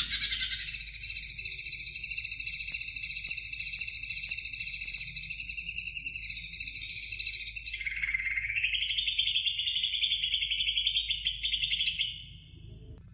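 Cucak hijau (greater green leafbird) singing: a dense, fast chattering song for about seven and a half seconds, then a lower, rapid warbling phrase that fades near the end.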